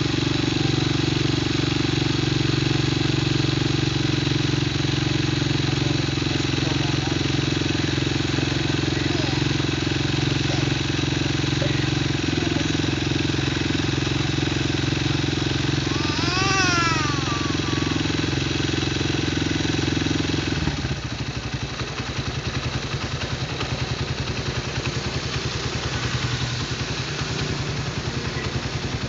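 Small motorcycle engine running at a steady raised speed, then dropping back to a lumpy idle about twenty seconds in.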